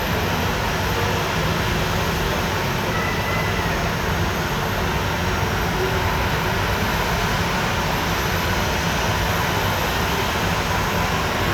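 Boeing 737-700's CFM56 turbofan engines running at idle with the aircraft parked, a steady jet noise with a faint high whine.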